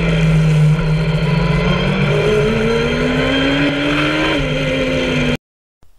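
Kawasaki ZX-10R inline-four motorcycle engine in an MK Indy car pulling hard under acceleration, its pitch climbing steadily over about four seconds and dipping slightly near the end. The sound cuts off abruptly about five seconds in.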